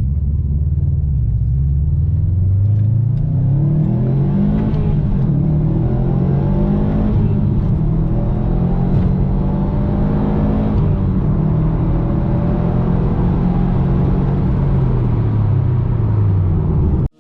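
2019 Subaru WRX STI's turbocharged 2.5-litre flat-four engine running through an Invidia N1 exhaust while driving. The engine note rises in pitch over the first few seconds as it accelerates, holds with small swells, and falls again near the end.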